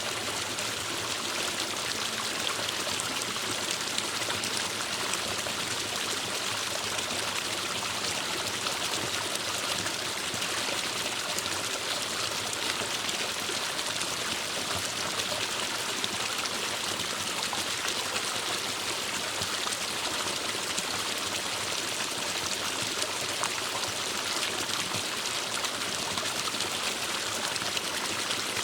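A forest stream flowing steadily over rocks, an even rushing and trickling of water.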